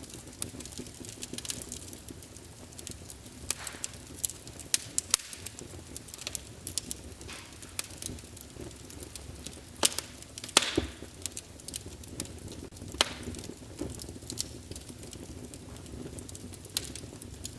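Wood fire burning in a fireplace, crackling with irregular sharp pops and snaps over a low steady rumble of flames; a cluster of louder pops comes about two-thirds of the way through.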